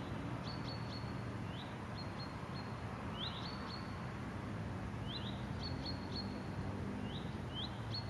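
A small songbird calling over and over with short high chirps, each a quick rising note followed by one or two brief level notes, about once a second, over a steady low background hum.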